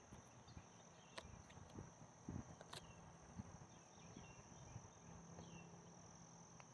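Faint, steady high-pitched drone of insects in the forest, with a few soft clicks and rustles of handling or footsteps.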